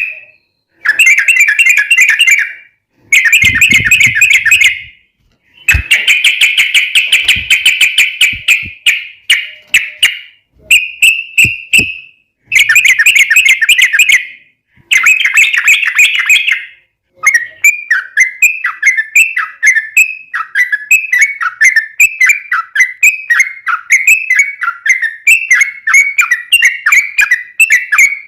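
Yellow-vented bulbul singing in loud, rapid chattering phrases of one to two seconds with short pauses between them. From about two-thirds of the way in, the phrases give way to a steady run of short falling notes, two or three a second.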